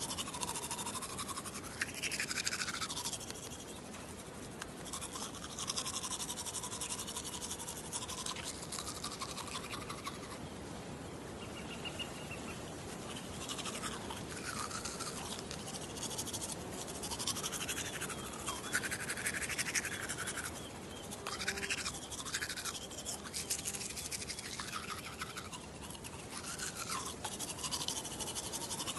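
Toothbrush bristles scrubbing close to the microphone in continuous, uneven back-and-forth strokes, a dense scratchy brushing.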